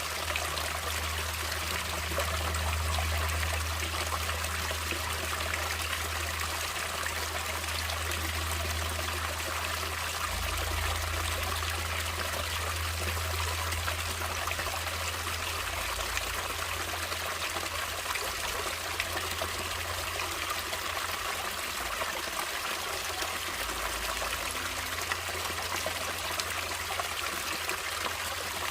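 Natural running water, a stream trickling and splashing steadily, with a low rumble underneath.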